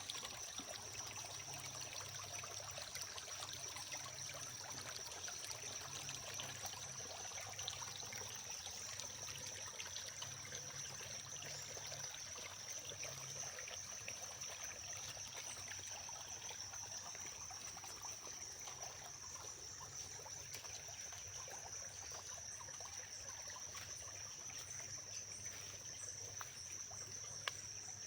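Small clear stream trickling steadily, with a thin, steady high-pitched whine running over the water sound.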